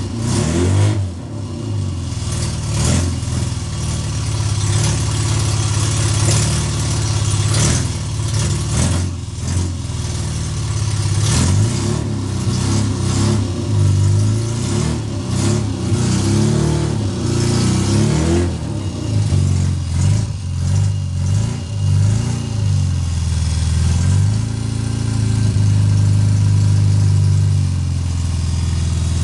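Newly built Austin Mini 1330 engine running in the car, revved repeatedly with the engine note rising and falling. It then settles into a steadier idle near the end.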